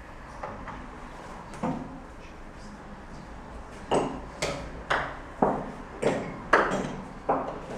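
Sharp knocks of chess pieces being set down on the board and chess-clock buttons being pressed during a fast exchange of rapid-chess moves. A couple of single knocks come first, then from about four seconds in a quick run of about eight, roughly two a second.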